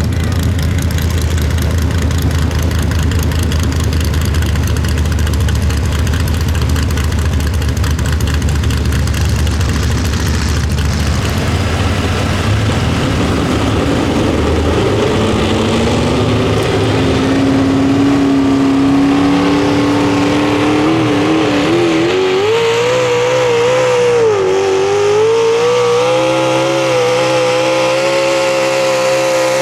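Pro Stock mini truck's engine running at full throttle under load on a pull. A heavy rumble in the first half gives way about halfway to a pitched engine note that climbs and then holds high and steady near the end.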